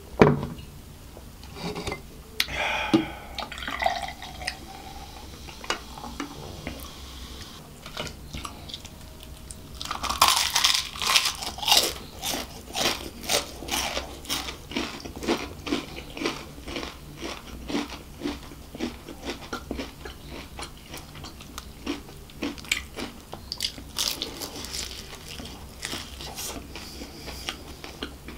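Close-miked chewing of KFC crispy fried chicken: quiet mouth sounds at first, then from about ten seconds in a dense run of crisp crunches from the fried breading. One sharp knock at the very start, the loudest sound, as a glass is set down on the wooden table.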